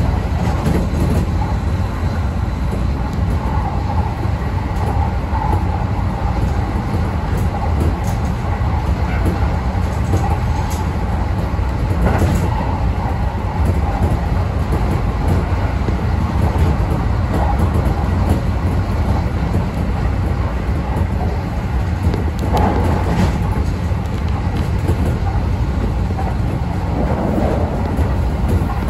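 Kintetsu electric train running steadily along the line: a continuous loud rumble of wheels on rails, broken by a few sharp clicks.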